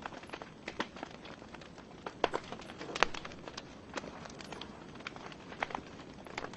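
Wood logs burning in a fireplace: irregular crackles and pops over a soft steady hiss, with a couple of sharper pops near the middle.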